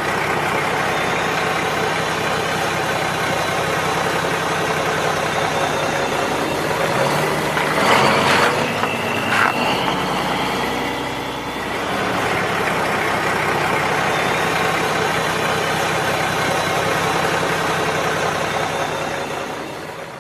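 Steady engine-like running sound, louder for a couple of seconds about eight seconds in, dipping briefly and then fading out at the end.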